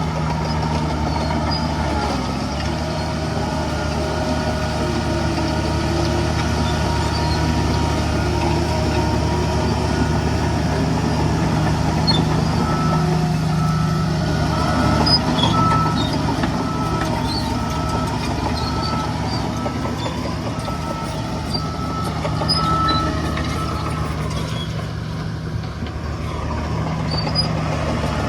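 Diesel engines of heavy earthmoving machinery running steadily. A backup alarm beeps at a regular pace for about ten seconds midway.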